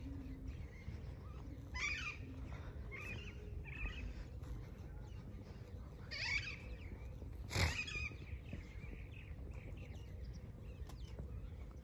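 Birds calling in short, scratchy bursts, about five times, the last two loudest, over a steady low rumble.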